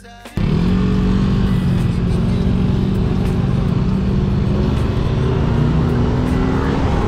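Motorcycle engine running as the bike rides through traffic, starting abruptly just after the start, its note climbing slowly and steadily as it gathers speed, over a steady rush of noise.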